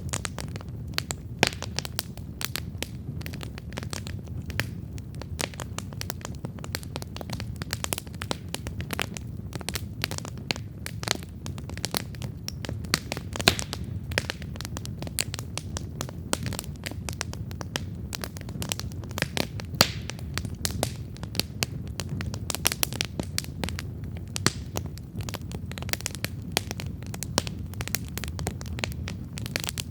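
Wood campfire crackling with irregular snaps and a few sharp, louder pops, over a steady low rumble.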